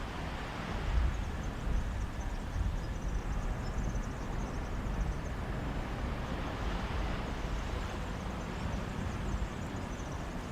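Sea waves washing onto a beach in a steady rush that swells and eases, with wind rumbling on the microphone in small gusts.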